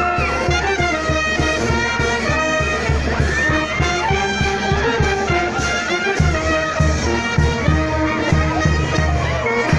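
Brass band music: trumpets and other brass carrying a melody over a steady bass beat.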